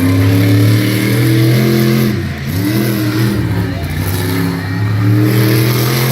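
Monster truck engine revving hard at high throttle, easing off briefly about two and a half seconds in, then climbing back up and holding.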